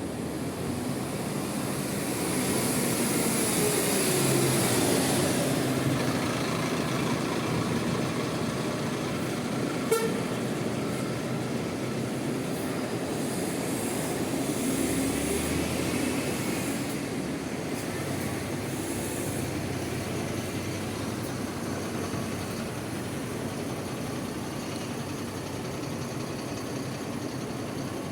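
Bus engines running and pulling through, their pitch rising and falling twice, over a steady rain-and-traffic hiss, with one sharp knock about ten seconds in.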